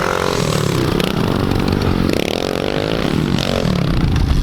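Small dirt bike engine revving up and down as it is ridden, its pitch rising and falling several times.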